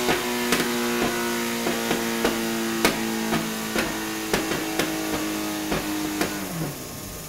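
Yamaha sportbike on a chassis dyno winding down after a pull: a steady engine drone sinking slowly in pitch and level, broken by irregular sharp pops. About six and a half seconds in, the drone drops away.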